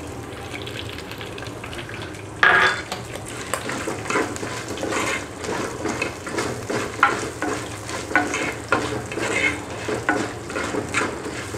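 Coconut pieces, dried red chillies and urad dal frying in hot oil in a clay pot, with a steady low sizzle. From about two and a half seconds in, a ladle stirs them, scraping against the clay in quick repeated strokes.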